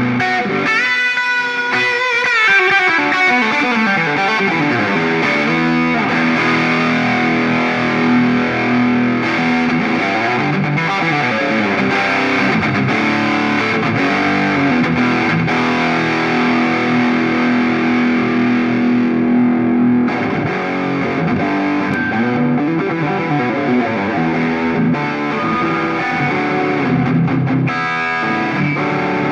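Electric guitar played through a Ring Red Swan distortion pedal: distorted notes and chords with long sustained notes, and a sliding pitch bend about a second in.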